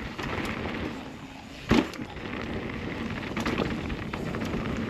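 Downhill mountain bike rolling over rough dirt trail: steady rumble and rattle from the tyres and bike, with a sharp knock a little under two seconds in and a few lighter clacks later.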